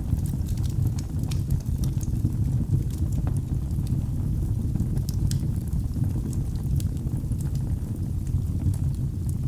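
Fire burning in a fireplace: a steady low rumble with many scattered sharp crackles and pops.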